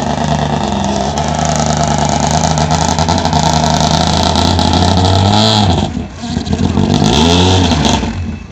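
Skoda Fabia rally car's engine running loud and steady as the car moves off at low speed, then two throttle blips about five and seven seconds in, each rising and falling in pitch, before the engine sound drops away near the end.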